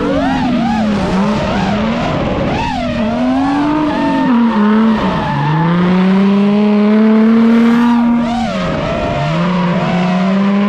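Nissan 350Z drift car's engine held at high revs while drifting, the pitch wavering up and down, dropping sharply about five seconds in and again near eight and a half seconds before climbing back and holding, with the tyres squealing over it.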